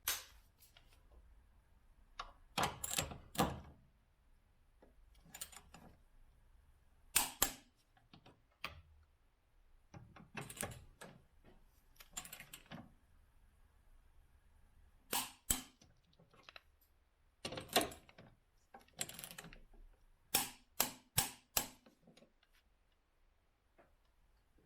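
Hand tools clicking and knocking on metal during mechanical work, in irregular single strikes, with a run of about five quick clicks near the end.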